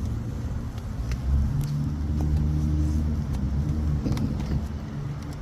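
Car engine running with a deep, steady note that swells about a second in and eases off near the end.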